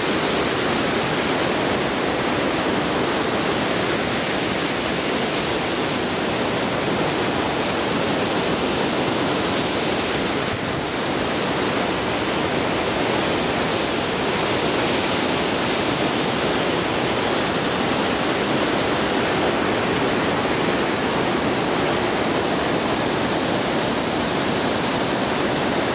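Waterfall plunging, a loud, steady rushing roar of falling water.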